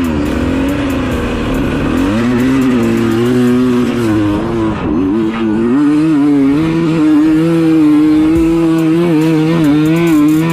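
Dirt bike engine revving. The pitch drops and climbs again a couple of times, then holds fairly steady with a quick wavering.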